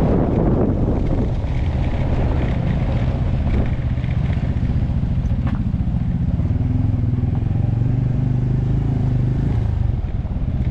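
Motorcycle engine running under way, a steady engine note over continuous riding noise.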